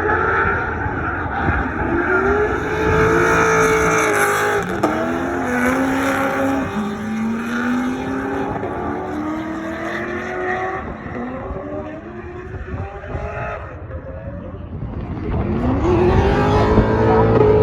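Drift cars' engines revving up and falling back again and again, over a haze of tyre noise. The sound dies down a little past the middle, then builds loud again near the end.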